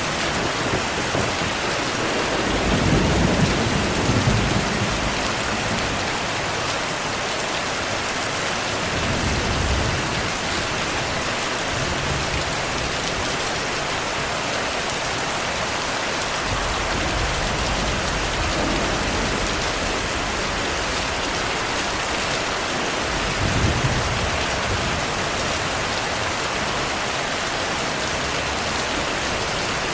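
Steady rainfall with thunder rumbling low several times, the strongest rumble a few seconds in and another near the end.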